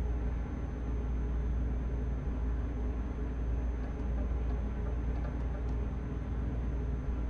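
Steady low rumble inside a truck cab while driving: engine and road noise.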